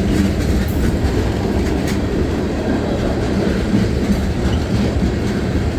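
Freight cars of a CSX manifest train rolling past close by: a loud, steady rumble of steel wheels on rail with a few faint clicks.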